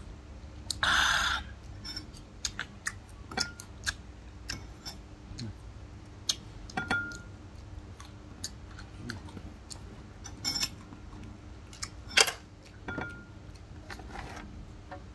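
A person eating peeled chicken eggs by hand: close chewing and lip smacks with many small scattered clicks, and one louder noisy burst about a second in.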